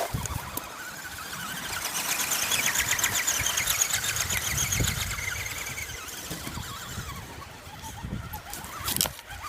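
An RC scale crawler's electric motor and gear drivetrain whining, rising and falling in pitch as it crawls, loudest a few seconds in before fading. A sharp knock near the end.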